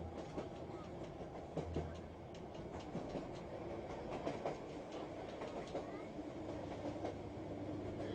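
Train running on the track: a steady rumble with an irregular clatter of clicks and knocks.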